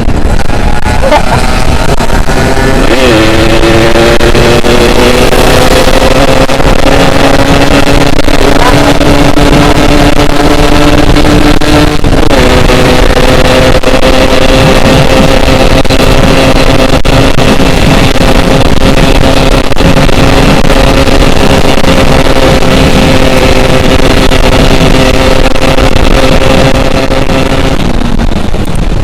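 Yamaha RX two-stroke motorcycle engine pulling hard at high revs, its pitch climbing, with gear changes about three seconds and about twelve seconds in. It then holds a steady high pitch and eases off near the end.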